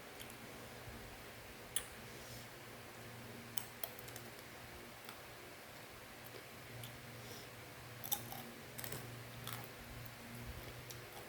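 Faint, scattered crunches of dry fried macaroni snack being chewed, a few at a time with a denser cluster near the end, over a steady low hum.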